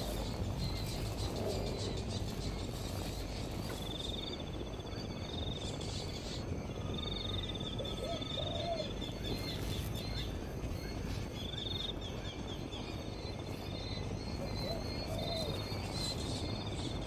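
Birds calling outdoors: short high trills about a second long recur several times, with a few lower short calls in between, over a steady background hiss.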